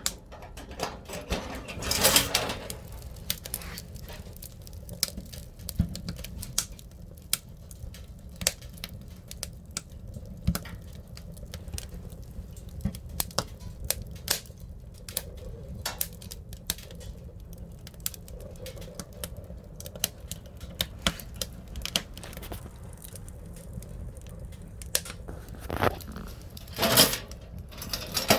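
Firewood crackling and popping as it burns in a Honma pellet-and-wood stove: irregular sharp snaps over a steady low rumble of the fire, with two louder rushing swells, about two seconds in and near the end.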